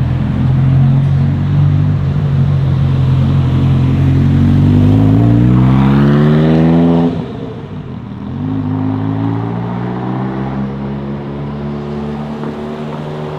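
Ferrari supercar engine accelerating hard, its pitch climbing for about seven seconds, then cutting off sharply as revs drop at a gear change. It then pulls again, quieter, with the pitch rising once more.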